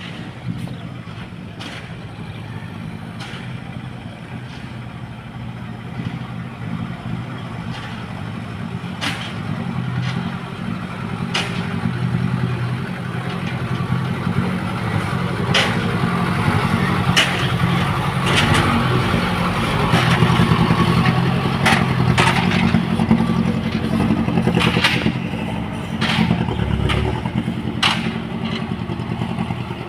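Diesel dump truck engine running steadily, growing louder through the middle and easing off near the end, with scattered sharp knocks and clatter over it.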